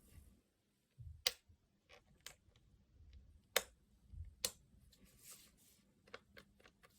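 Irregular sharp plastic clicks and taps from a hair dryer being handled. Three stronger clicks stand out among several fainter ones.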